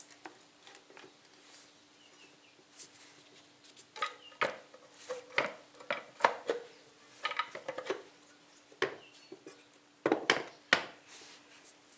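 Metal clinks and knocks as a lawn tractor's transaxle case is split open and its halves and internal parts are handled, with clusters of clanks about four to seven seconds in and again around ten seconds.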